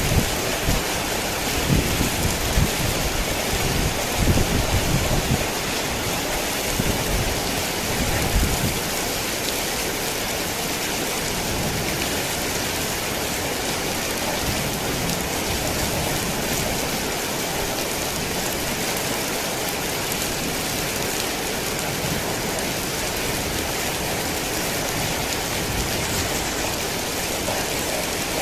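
Heavy rain falling steadily in a dense, even hiss. Low rumbles of thunder roll under it for the first third and die away about nine seconds in.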